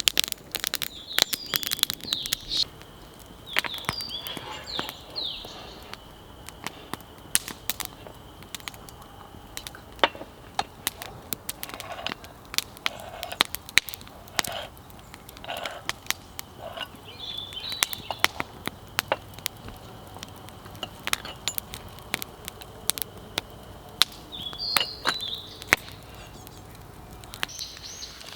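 Wood fire crackling with irregular sharp pops, while small birds chirp now and then.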